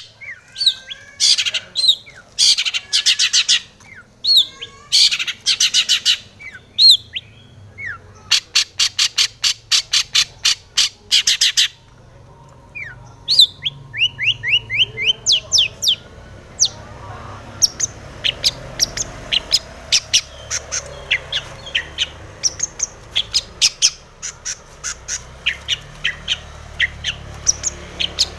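Long-tailed shrike (cendet) singing: loud bursts of rapid, repeated harsh chattering notes for about the first twelve seconds, then a looser run of short rising chirps and scattered notes.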